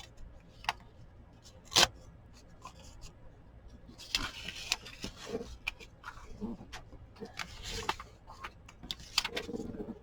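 Paper being handled on a craft table: rustling stretches with a few sharp taps and clicks, the loudest about two seconds in.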